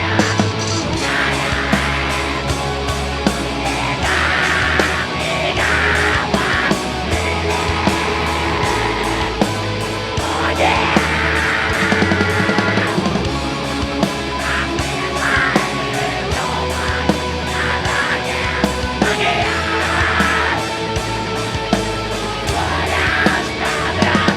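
Heavy metal band playing live, with drums hitting steadily under dense guitars and yelled vocals.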